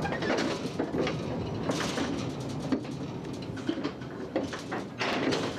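Narrow-gauge mine railway train running, its carriages rattling and clanking, with irregular sharp knocks over a steady rumble.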